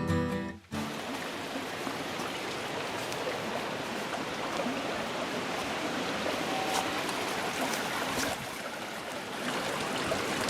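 Steady rushing of a flowing stream, with a brief dip in level about eight seconds in. A strummed acoustic guitar cuts off just before the water sound begins.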